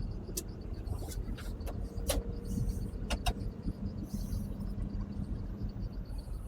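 Case CX220 excavator running with a steady low engine hum as it is tracked onto a lowboy trailer, with several sharp clanks in the first few seconds.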